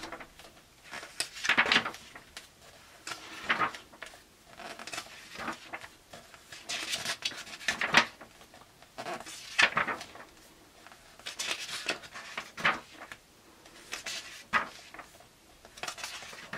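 Pages of a hardback graphic novel being turned one after another, a paper swish every second or two.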